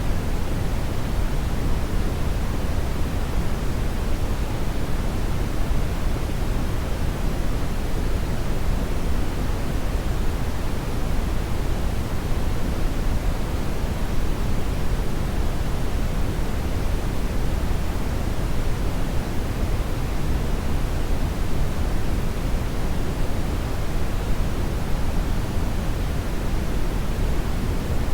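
Hair dryer running steadily: an even, unchanging rush of air noise, fullest in the low range, with no changes in speed or pitch.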